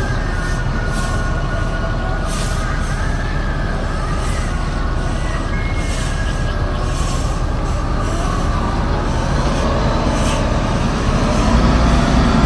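Steady mechanical rumble with faint metallic squeals and clanks from vehicles being unloaded off a ferry. A heavy truck engine hum grows louder about eleven seconds in.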